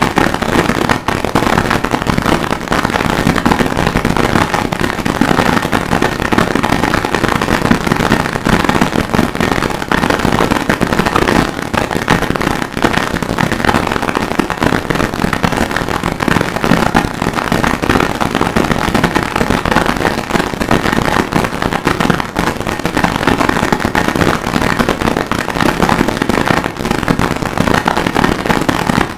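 Harsh noise music: a loud, unbroken wall of distorted crackle and clicks with no clear beat, made from a processed sample of forge and anvil work.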